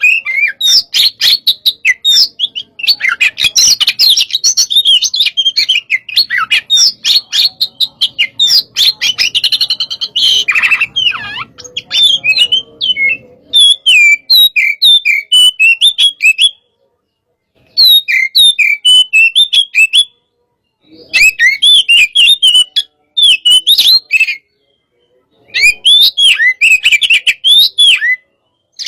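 Oriental magpie-robin singing loudly in a fired-up, aggressive mood: a fast, varied string of sharp whistles, trills and chattering notes, unbroken for the first half, then in bursts with short pauses.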